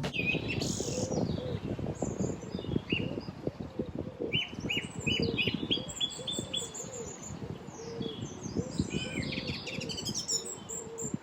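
Birds chirping outdoors: scattered high chirps, including a quick run of about seven short notes, over a low call repeated about twice a second.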